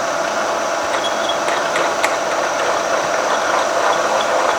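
Tree milling machine running steadily with a constant whine, drilling into a hardened crankshaft to make room for Mallory heavy metal. There are a few light ticks in the first two seconds.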